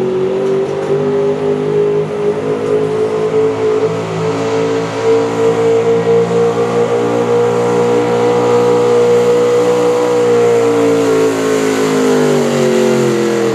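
Pulling truck's engine running flat out under heavy load as it drags the weight-transfer sled, holding a high, steady pitch that climbs slightly, then falling away in the last few seconds as the revs drop at the end of the pull.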